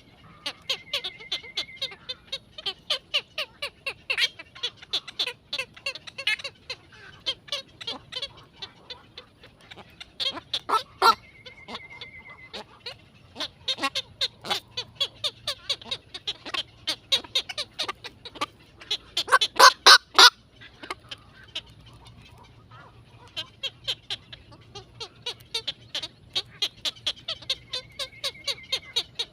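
Birds calling rapidly and continuously, many short high chirps a second, with a louder flurry about twenty seconds in. A brief steady high note sounds three times.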